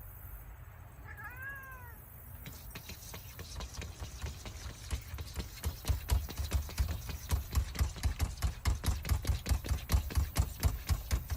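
A domestic cat gives one short meow about a second in. It is followed by a fast, even run of soft clicks and low thumps, about five a second, that grows louder toward the end.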